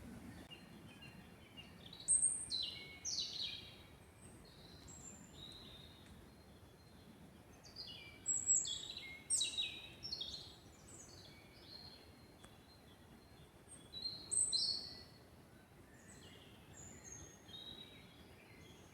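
Songbird singing in the forest: three loud phrases of quick high, down-slurred notes about six seconds apart, with fainter chirps between them over a steady low background hiss.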